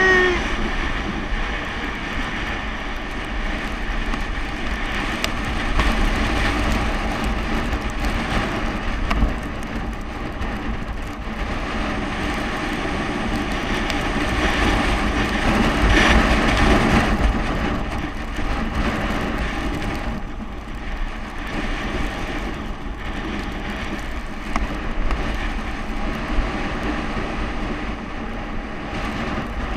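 Wind rushing over the microphone and steady road rumble from a bicycle coasting fast downhill. The noise swells a little about halfway through, then eases.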